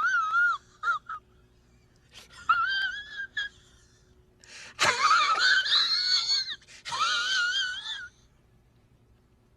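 High-pitched, wavering, wheezy wail in several separate phrases, with a fast vibrato in the pitch: a meme sound effect.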